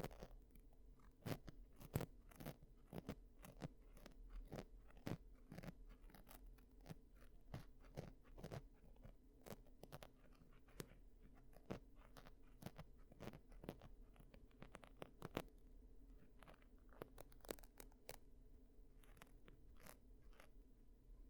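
Close-miked ASMR ear-cleaning sounds: quick, irregular crackling clicks and scrapes, thinning out near the end.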